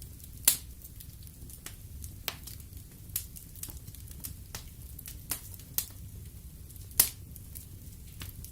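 Wood fire burning in a fireplace: a low steady rumble of flames with irregular crackles and sharp pops of the burning logs, the two loudest about half a second in and near seven seconds.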